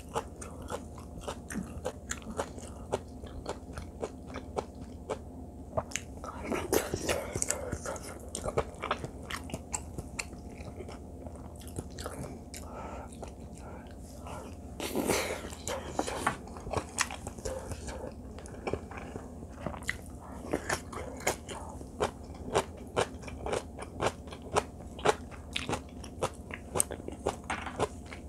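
Close-miked chewing of mouthfuls of rice and side dishes, with many small wet clicks and crunches throughout. Twice there is a louder, noisier spell of eating sounds.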